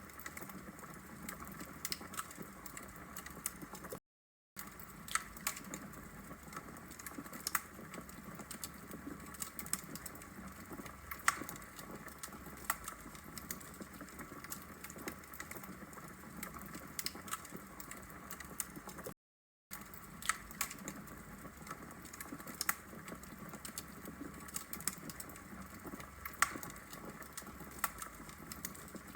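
Wood fire burning in a fireplace, with a steady low hiss and irregular sharp crackles and pops from the logs. The sound cuts out completely for about half a second twice, about four seconds in and about nineteen seconds in.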